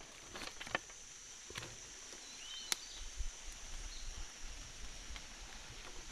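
Outdoor wild ambience: a steady high-pitched insect drone, a few short bird chirps and scattered light clicks and snaps.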